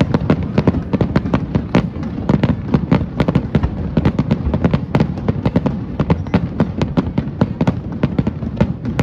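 Aerial fireworks going off in a dense rapid barrage, several sharp bangs a second over a continuous low rumble.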